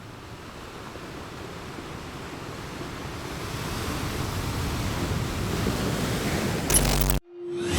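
A steady rushing noise, like surf or wind, swelling gradually louder over several seconds. Near the end it breaks off abruptly, and a brief single low tone follows.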